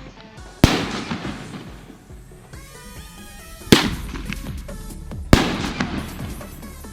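Consumer fireworks bursting: three sharp booms, about a second in, near four seconds and a second and a half after that, each trailing off as it fades, over background music.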